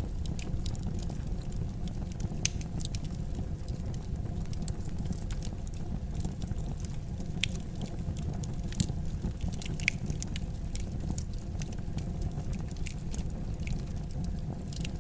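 Fire burning in a fireplace: a steady low rumble of the flames with irregular sharp crackles and pops.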